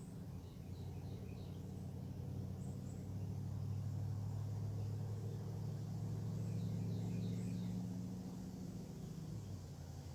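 A distant engine passes by, its low hum swelling over a few seconds and fading near the end, while small birds chirp now and then.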